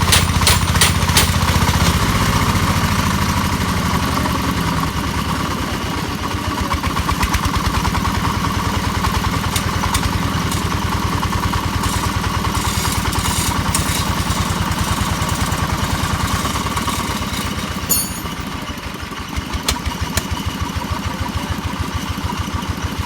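Hammer drilling machine running with a steady, motor-like drone, with a rapid run of sharp knocks in the first second.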